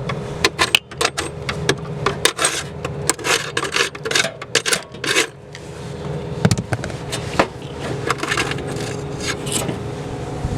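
Irregular clicks, taps and scrapes of hands handling metal parts and wiring inside an air conditioning unit's electrical compartment, over a steady low mechanical hum.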